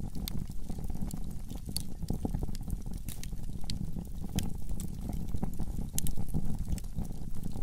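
Wood fire burning in a fireplace: a steady low rumble with crackles and sharp pops at irregular moments.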